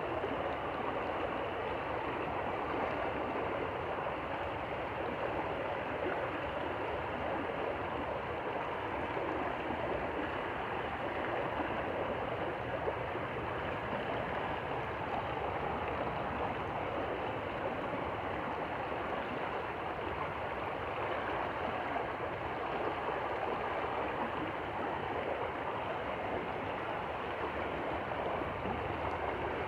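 Stream water flowing steadily over stones, an even rushing babble.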